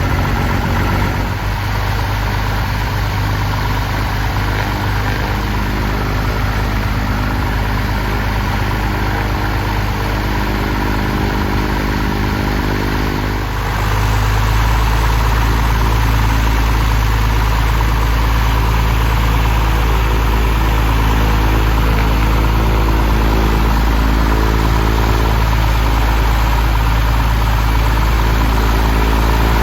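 Aircraft piston engine and propeller running steadily on a ground run, stepping up to a louder, higher power setting about halfway through.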